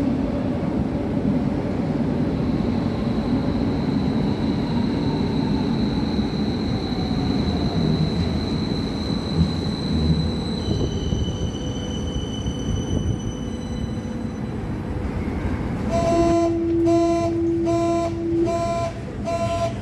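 Berlin U-Bahn type JK train running, its traction motor whine falling in pitch as it slows over the steady rumble of the wheels. Near the end a train signal starts up: a string of short evenly spaced beeps, with one longer tone under the first of them.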